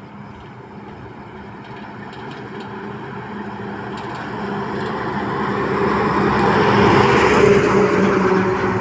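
A truck approaching and passing close by. Its steady engine hum and rushing noise grow louder all the way, peak about seven seconds in, then begin to fade.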